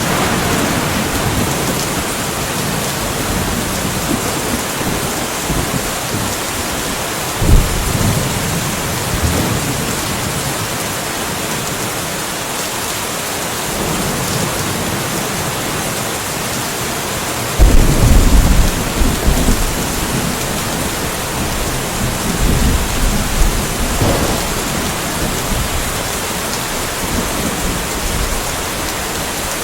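Steady rain with a constant hiss. A short low thump of thunder comes about seven seconds in, and a louder thunder rumble starts suddenly a little past the middle and rolls on in waves for several seconds.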